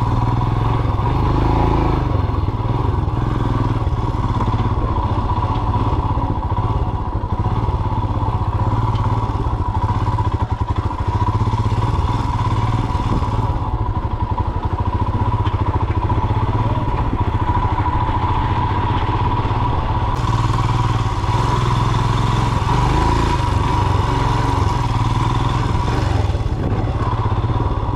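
Royal Enfield Himalayan BS6's single-cylinder engine running steadily as the motorcycle is ridden off-road.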